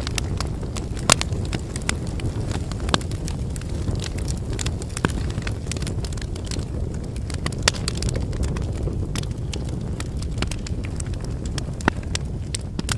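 Wood fire burning: a steady low rumble of flames with frequent sharp crackles and pops of the firewood, a few louder pops about a second in, near eight seconds and near twelve seconds.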